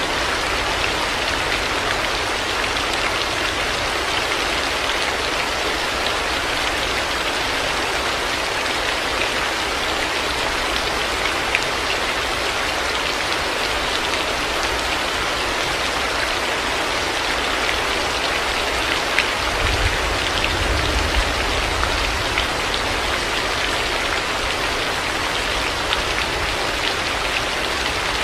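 Heavy rain falling steadily, with scattered individual drops ticking, and a low rumble of distant thunder for a few seconds about two-thirds of the way through.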